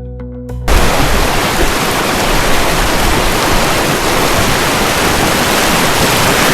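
Fast-flowing mountain river rushing over rocks, a loud, steady wash of water noise. It cuts in abruptly about half a second in, replacing soft background music.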